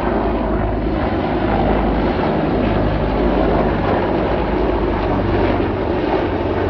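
Aircraft engine noise, loud and steady, with a low hum underneath.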